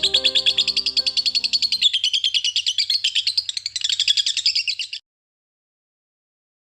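A bird chirping in a fast, even run of about a dozen high chirps a second, the pitch dipping in the middle and rising again, cut off suddenly near the end. Soft music plays under the first two seconds.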